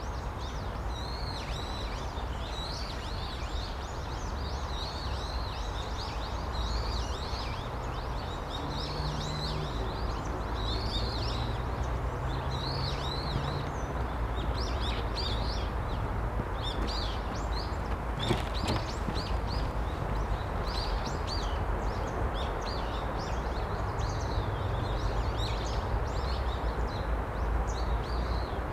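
Many small songbirds chirping in quick, short notes, over and over without a break, over a steady low background rumble; a single sharp click about two-thirds of the way through.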